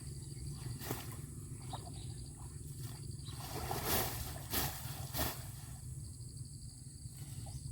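Fish thrashing in a stream fish trap: several sharp slaps and splashes scattered over a steady low rumble, the strongest about four to five seconds in.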